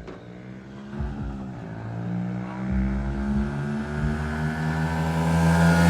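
Dirt bike engine running, its pitch dipping briefly about a second in, then holding steady while it grows steadily louder toward the end.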